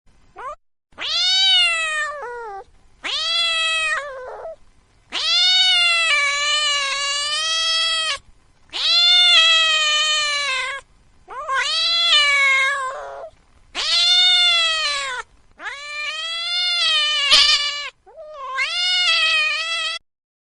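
A hungry domestic cat meowing over and over: about eight long, drawn-out meows, each one to three seconds, rising then falling in pitch, with short pauses between them. A brief click about three-quarters of the way through.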